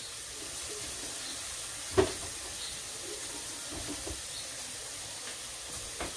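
Eggs and feta cheese frying in a pan on a gas stove, a steady sizzle, with a single sharp knock about two seconds in.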